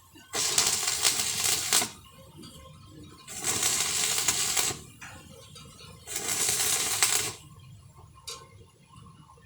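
Three short runs of electric arc welding, each about a second and a half long, with pauses between.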